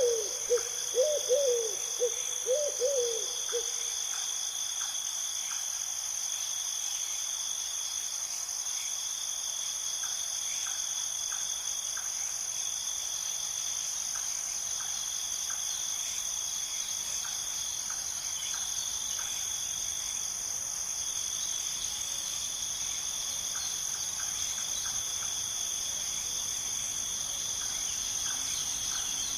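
Steady, high-pitched night chorus of crickets. An owl hoots a few wavering calls in the first few seconds, then stops.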